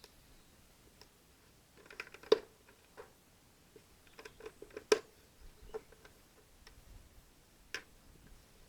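Scattered, irregular clicks and knocks of something being handled, the two loudest about two and five seconds in; no engine is running.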